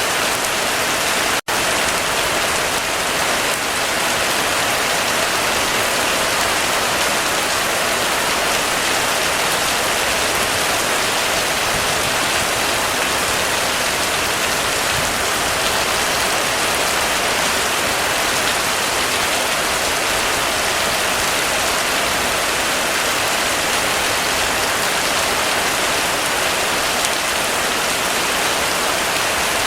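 Heavy rain falling steadily in a dense, even hiss. The sound drops out for a split second about a second and a half in.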